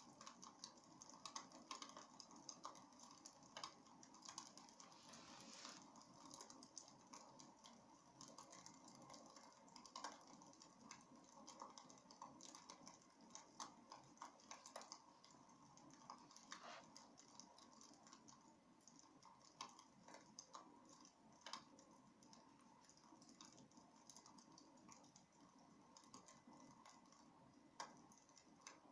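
Faint wood fire crackling in a fireplace: irregular small pops and snaps over a soft steady hiss.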